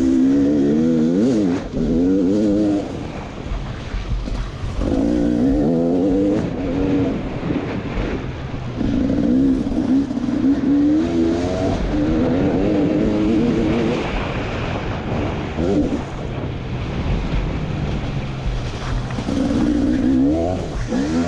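KTM EXC 300 single-cylinder two-stroke enduro engine ridden hard, revving up and dropping off again in repeated bursts every few seconds as the throttle is opened and closed.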